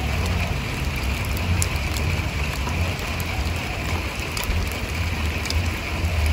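Steady rain falling, with scattered single drops ticking sharply close by, over a low rumble.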